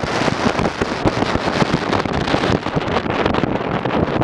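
Wind buffeting the camera's microphone: a loud, steady crackling rumble full of small pops.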